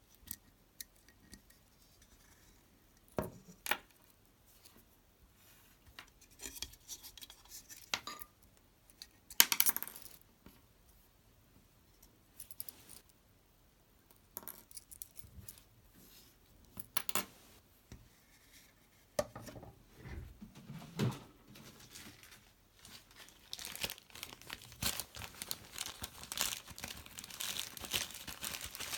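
Hands-on work on a Mac Pro cooling fan: scattered clicks, clinks and short scrapes of small tools and parts being handled, giving way in the last few seconds to a denser crinkling, scratchy rustle.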